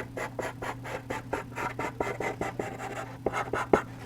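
Soft charcoal pencil scratching on textured charcoal paper in quick, short back-and-forth strokes, several a second, as an area is shaded dark black.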